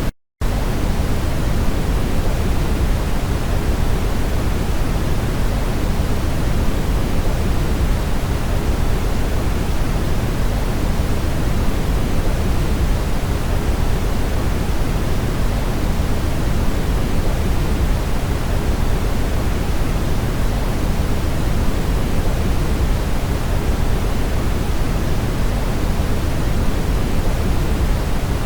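Steady brown noise: a constant deep, rumbling hiss weighted toward the low end. It cuts out completely for a split second just at the start.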